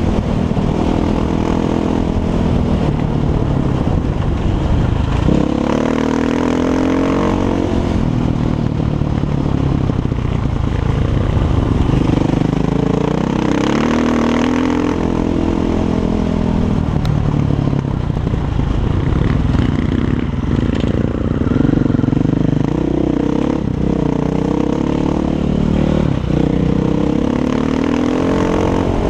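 Single-cylinder four-stroke engine of a 500 Six Days enduro motorcycle with an Akrapovic exhaust, being ridden. It accelerates hard and backs off again about five times, the pitch climbing and dropping with each run through the revs.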